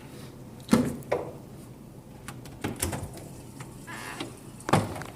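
Doors being handled: sharp knocks and latch clicks, the loudest about a second in and again near the end, with a brief scraping slide just before the last knock.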